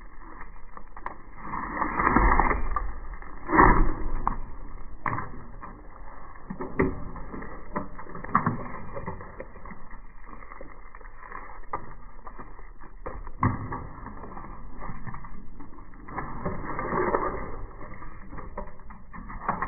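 3/8-inch drywall being broken and torn off a wall: irregular knocks, cracks and crumbling crunches, with the heaviest crunches about two and three and a half seconds in.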